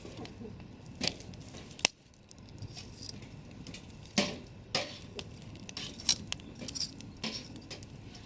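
Campfire burning, its wood giving irregular sharp pops and snaps over a low steady hiss. The loudest snaps come about a second in and again about four seconds in.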